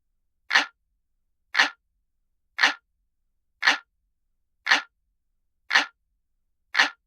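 Clock ticking sound effect: one sharp, identical tick a second, seven in all, with silence between them.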